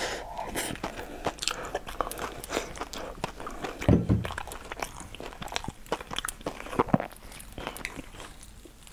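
Close-miked chewing and wet mouth sounds of a person eating, with many small clicks throughout. There is a short, low thump about four seconds in.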